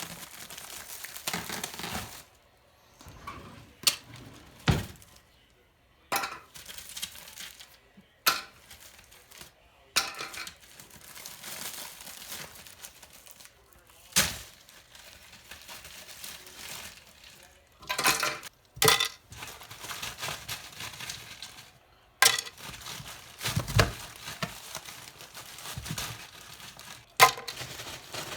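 Kitchen handling: rustling and crinkling, as of packaging, broken by a string of sharp clinks and knocks, as of dishes or containers being moved.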